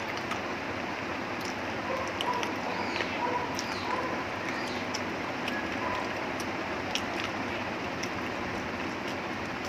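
Chewing and small wet mouth clicks from a person eating chicken, over a steady hiss, with a few short high chirps here and there.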